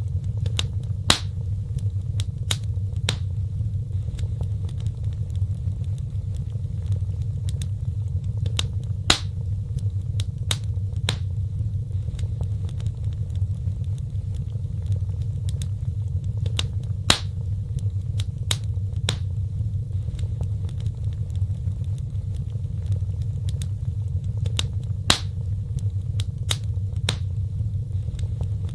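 Fireplace fire crackling: scattered sharp pops and snaps over a steady low rumble. The loudest pops come about every eight seconds.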